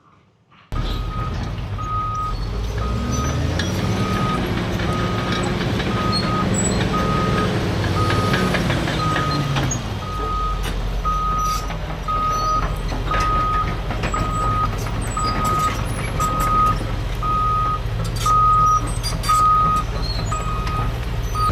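Diesel heavy equipment running under load, with a backup alarm beeping steadily about one and a half times a second. The engine pitch rises about three seconds in and falls back about ten seconds in, with scattered cracks and knocks over the engine.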